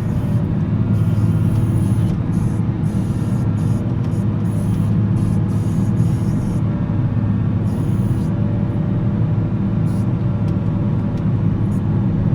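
Volvo L70C wheel loader's diesel engine running steadily under load while plowing snow, a constant low drone.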